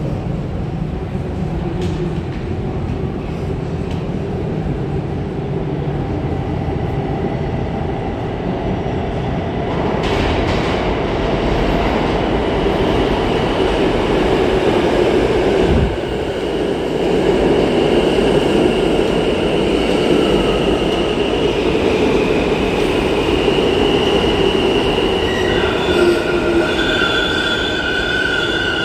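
Subway train running on the rails, a steady rumble that grows louder partway through. High metallic wheel squeal sets in during the second half.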